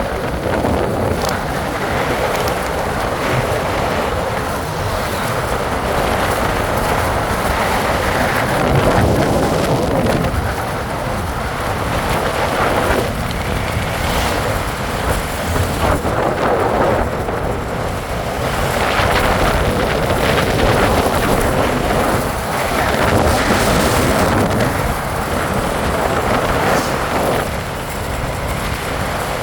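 Wind rushing over the microphone during a ride, loud and steady, swelling and easing every few seconds.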